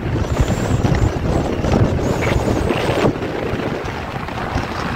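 Loud wind buffeting the microphone, a rough, gusting rumble.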